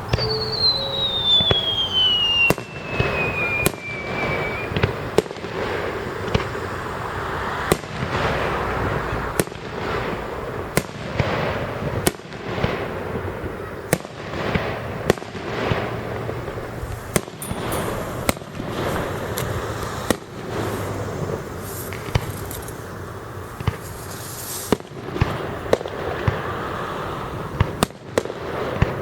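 Aerial fireworks display: a whistle falling steadily in pitch over about the first five seconds, then a rapid, continuous series of sharp bangs and booms with echoing tails.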